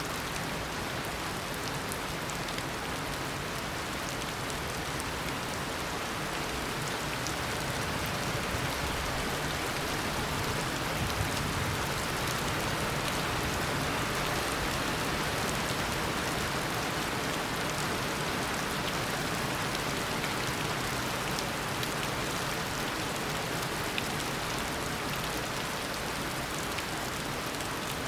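Steady heavy tropical rain falling on surfaces, a dense even hiss with scattered individual drop ticks, swelling a little midway.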